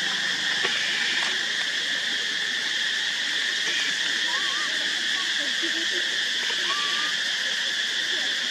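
Steady, continuous outdoor insect chorus with a constant high buzz. Two or three brief squeaky rising calls come over it in the second half.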